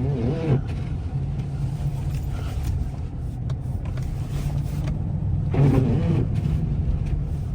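Pickup truck driving on snow-covered roads, heard from inside the cab: a steady low engine hum over even tyre and road noise.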